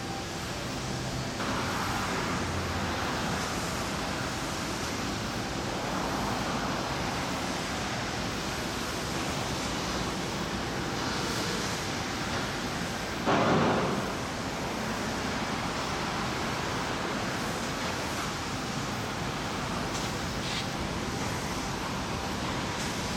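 Steady rushing outdoor background noise, with one brief louder rush about halfway through.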